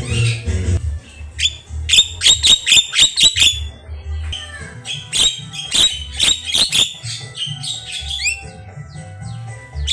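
Javan myna singing: two fast runs of sharp, repeated notes with a rising whistle near the end, over background music with a low beat.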